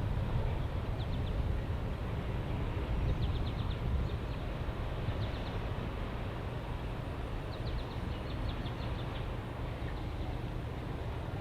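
Steady low rumble, with a small bird chipping in quick runs of short, high notes several times over it.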